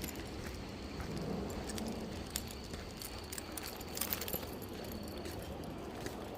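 Walking and handling noise on a trail, with a low rumble and a few sharp light clicks or clinks. A faint, thin, high steady tone comes in about a second in and stops after about five seconds.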